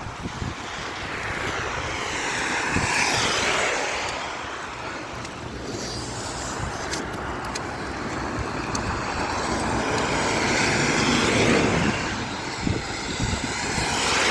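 Cars passing on a road: tyre and engine noise swells and fades twice, peaking about three seconds in and again near eleven seconds.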